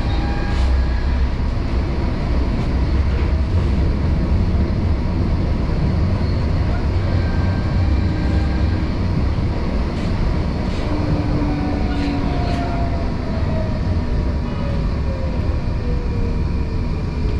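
Gothenburg tram running on its rails, a steady loud rumble with a few light clicks. A whine falls in pitch over several seconds in the second half.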